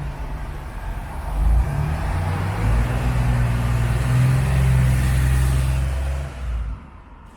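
A car engine with a deep exhaust note, its pitch shifting in steps as it revs and drives, then fading out about six and a half seconds in.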